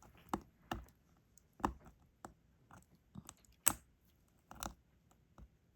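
Plastic tweezers clicking and tapping against small resin diamond-painting drills while prying them off the sticky canvas: about a dozen irregular sharp clicks, the loudest about three and a half seconds in.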